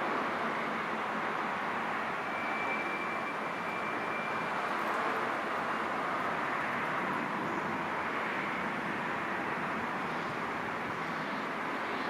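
Turbofan engines of an Embraer regional jet climbing out after takeoff, heard from afar as a steady, even rush of jet noise.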